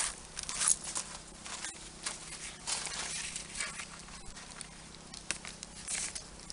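Hand-tool work on VVF electrical cable: a string of short, irregular scrapes and clicks, several a second.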